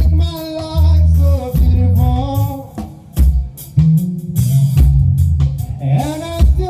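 Live gospel band music: drum kit and bass guitar under a pitched melody line, with a singing voice.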